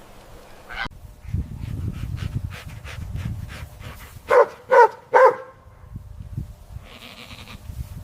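A goat giving three short bleats in quick succession, about halfway through, over a low rumbling background noise.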